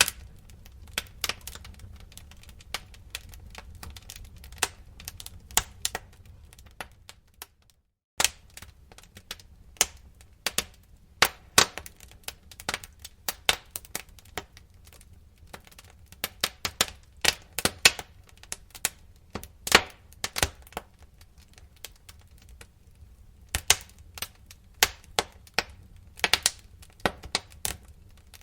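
Wood fire crackling in a fireplace: irregular sharp pops and snaps over a low steady rumble. The sound drops out for a moment about eight seconds in, then resumes.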